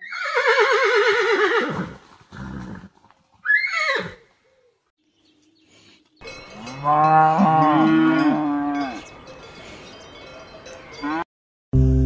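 A horse whinnies at the start, a quavering call falling in pitch, followed by a second short rising-and-falling call. Then a cow moos in a long, low call from about six to nine seconds in.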